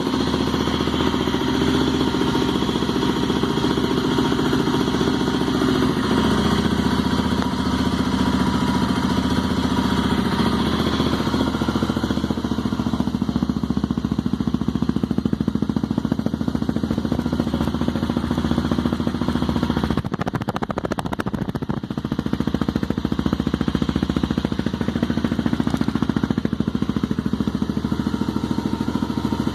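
Honda XRE 300 single-cylinder engine running steadily through a Foco Racing aftermarket exhaust, its fuel injection readjusted, with a brief dip in the note about two-thirds of the way through.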